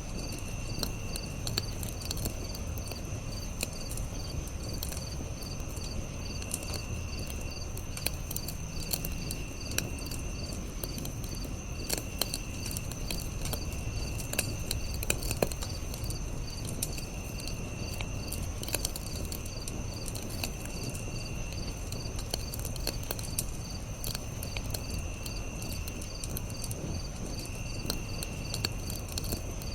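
Campfire crackling with scattered sharp pops over a low, steady rush, while insects chirp in a fast, even rhythm and a higher buzzing call repeats every two to three seconds.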